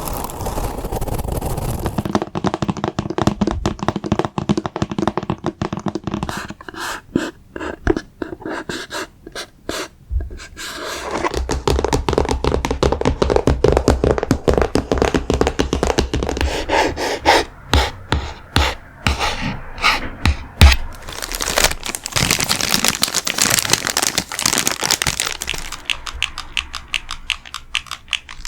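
Close-miked ASMR triggers: fingers tapping rapidly on objects, changing every few seconds between quick clicking taps, with a few heavier knocks, and rubbing or scratching noise.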